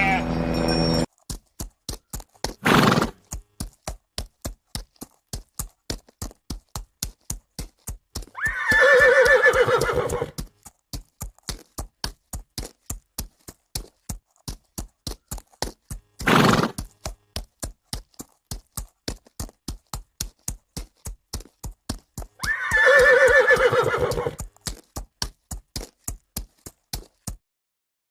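Horse hooves clip-clopping at an even pace, about three steps a second. The horse neighs twice, once about nine seconds in and again about twenty-three seconds in, with two short bursts near three and sixteen seconds. The hoofbeats stop just before the end.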